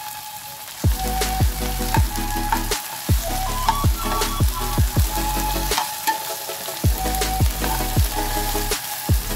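Chopped okra frying in hot oil in a pan, sizzling steadily as it is stirred. Under it runs background music with a deep bass beat that pauses a few times.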